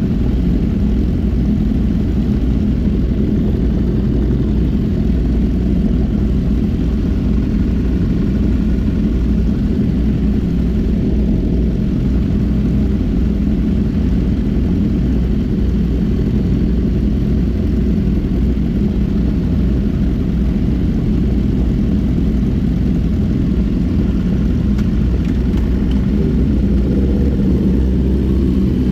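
A big 1000cc motorcycle running at a steady cruising speed, its engine drone mixed with steady wind rumble on the microphone.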